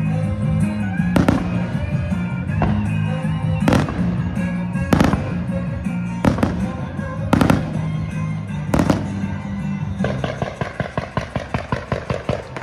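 Fireworks display set to music: shells bang sharply every second or so over a steady musical backing. From about ten seconds in comes a rapid string of launches, about five a second, as a fan of comets is fired.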